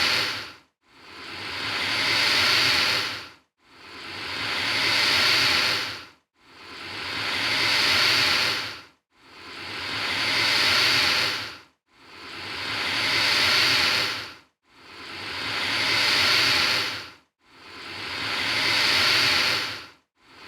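Alligator hissing over and over at an even pace, about one hiss every three seconds. Each hiss swells up and then stops sharply, with a short silence before the next.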